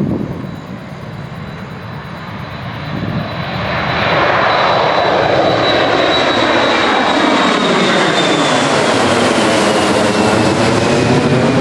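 Jet airliner's engines passing close during departure: the noise swells from about three seconds in and stays loud, with a high fan whine that slowly falls in pitch as the aircraft goes by.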